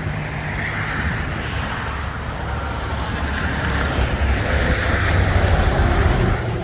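Road traffic going by: a steady rush of tyres and engines with a low rumble, swelling a little as vehicles pass.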